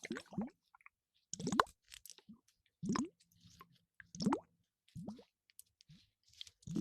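A series of short, wet, plopping blips, each rising quickly in pitch, about one every second or so, like an ASMR liquid or bubble trigger sound.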